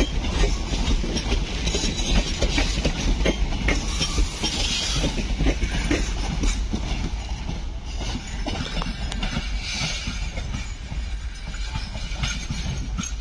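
Passenger train coaches rolling past on the next track, the wheels clattering over rail joints above a steady rumble. The sound grows gradually quieter as the last coach moves away.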